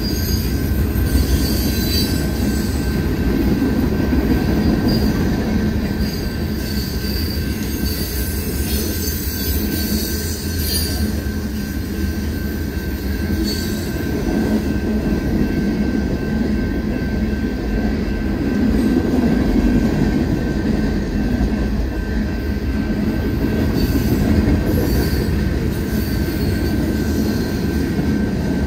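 Freight train cars rolling past a grade crossing: a steady, heavy rumble and rattle of wheels on rail, with brief high-pitched wheel squeals a few times along the way.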